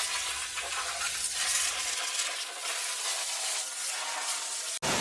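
High-pressure water spray hissing steadily against a car's body during the rinse.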